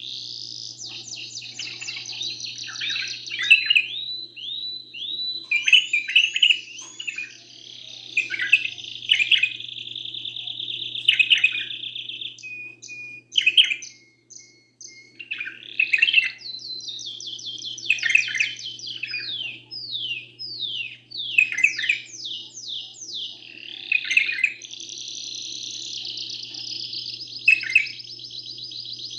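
Canary singing a long, continuous song of rolling trills and quick falling chirps, with a brief pause about halfway through. A faint steady low hum runs underneath.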